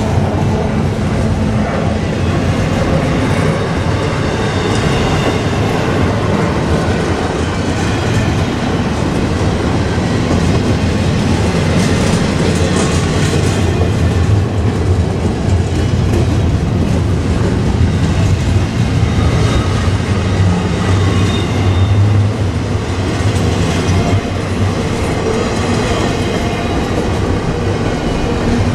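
A train passing close by, its cars rolling steadily along the track with wheel-on-rail clatter.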